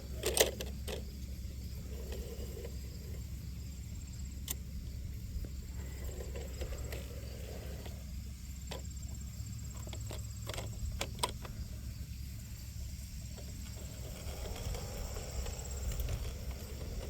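Scattered clicks and light knocks over a low steady hum, from an LGB G-scale garden train and its passenger car on outdoor track, with a faint high insect buzz.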